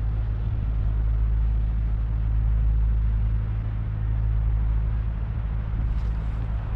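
Train passing close by: a steady rumble with a low hum, easing off slightly near the end.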